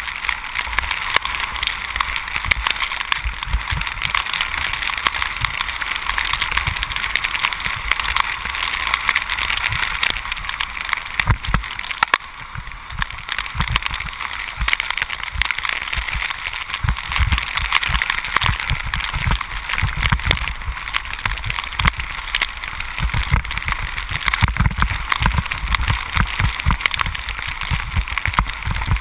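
Bicycle tyres rolling on a wet road with a steady hiss of water spray and rain, broken by irregular low thumps.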